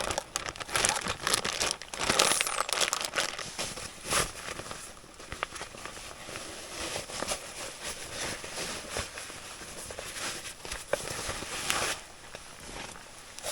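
Plastic or foil food packaging crinkling and rustling as it is handled, in irregular bursts, heaviest in the first few seconds and again near the end.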